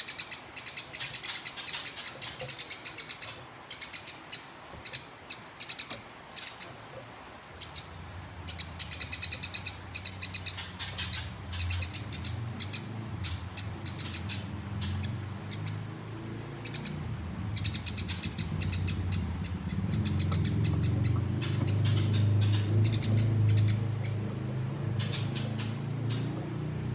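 Gereja tarung songbird singing in repeated bursts of rapid, high chirping trills. A low rumble comes in about a third of the way through and grows louder in the second half.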